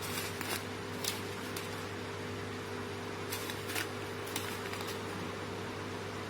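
Automatic premade-bag packaging machine running: a steady machine hum with short hissing bursts at uneven intervals, several seconds apart or closer.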